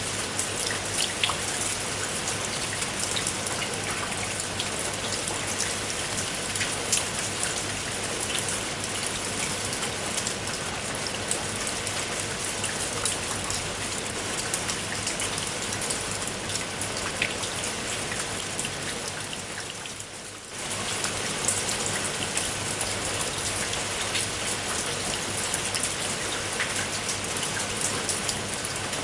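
Rain falling steadily, with many separate drops striking a surface as sharp ticks. About two-thirds of the way through it fades down for a moment, then cuts abruptly back to full level.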